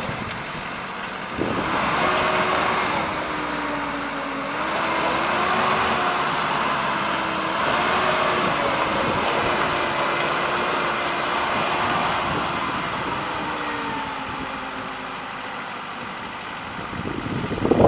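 Off-road vehicle's engine revving under load, its pitch wavering up and down as the stuck vehicle tries to drive free. The engine picks up about a second and a half in and eases off near the end.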